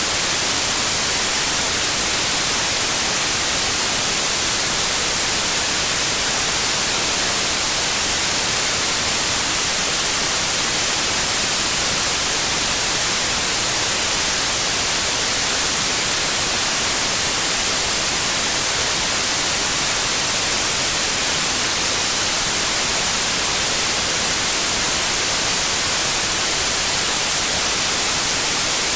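Steady electronic white noise, a constant hiss strongest in the high end, with no changes in level.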